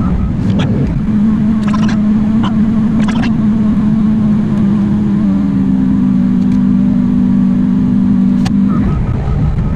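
Excavator's diesel engine and hydraulics working under load: a low rumble with a steady hum that steps up in pitch about halfway through and drops away near the end. Several sharp knocks and clanks, likely the bucket and tracks working the dirt.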